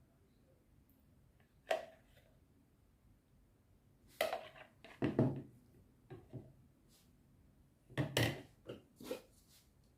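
A utensil stirring a mixture in a bowl, with irregular scrapes and clinks against the bowl: one about two seconds in, then clusters around four to five seconds and eight to nine seconds.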